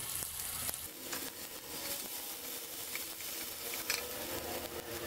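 Ginger-garlic paste sizzling in hot oil in a frying pan as it is stirred with a spoon, a steady hiss with a few light clicks.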